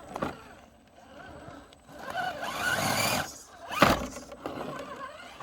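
FTX Hi Rock RC rock crawler's electric motor and geartrain whining in a short burst as it climbs, about two seconds in, followed by one sharp knock near four seconds in.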